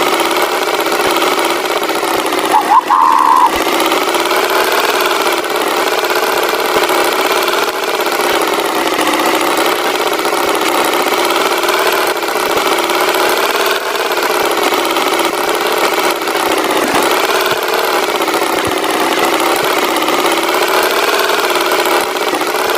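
A tractor engine sound effect running steadily, with a short higher tone about three seconds in.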